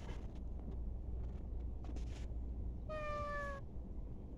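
A kitten meowing once, about three seconds in: a short high call that falls slightly in pitch.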